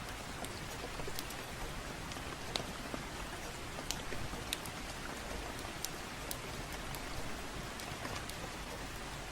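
Steady gentle rain, with scattered sharp crackles and pops from a wood fire.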